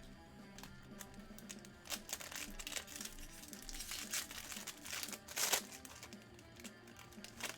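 Crinkling and tearing of a foil trading-card pack wrapper being ripped open, loudest about five and a half seconds in, over background music.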